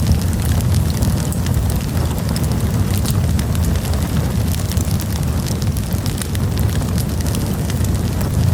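Campfire burning: frequent sharp crackles and pops of burning wood over a steady low rumble of the flames.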